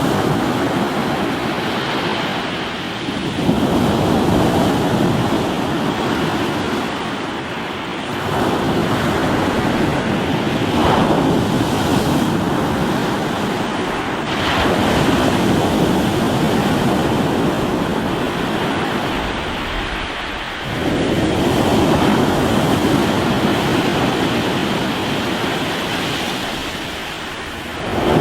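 Ocean waves breaking on a rocky shore: a continuous rushing wash that surges up about every five to seven seconds as each wave comes in, then eases off.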